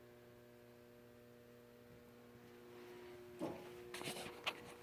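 Faint steady electrical hum with several fixed tones. A few short clicks and rustles come in over the last second and a half.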